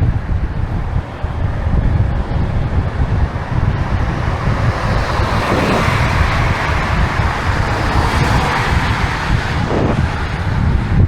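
Wind buffeting the microphone of a moving bicycle, a steady low rumble, with a rushing hiss that swells about halfway through and fades near the end.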